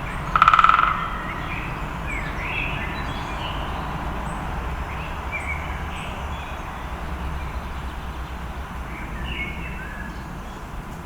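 Songbirds singing in a spring woodland, with short chirps and whistled phrases scattered throughout. About half a second in there is a loud, harsh, buzzy call lasting under a second.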